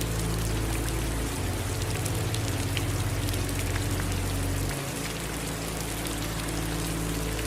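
Steady rain falling: an even hiss with scattered individual drops tapping. Under it runs a low steady hum that shifts pitch abruptly twice.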